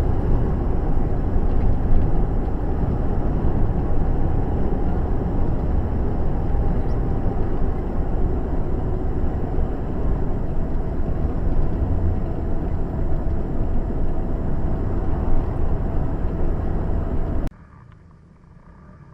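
Steady low rumble of a car on the move, road and engine noise picked up by a dash camera, with a faint steady tone running through it. It cuts off abruptly near the end, giving way to a much quieter drone.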